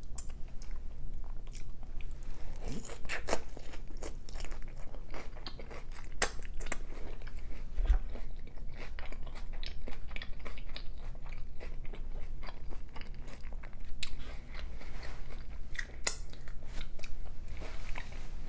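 A person chewing a mouthful of consommé-dipped birria taco close to the microphone, with many irregular small clicks from the mouth throughout.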